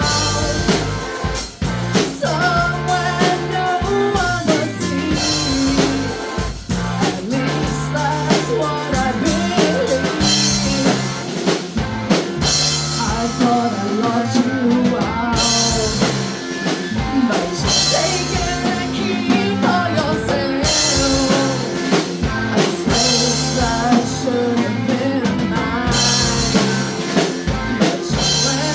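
A rock band playing live: drum kit, guitar and bass under a sung lead vocal, with bright cymbal-heavy stretches coming and going through the song.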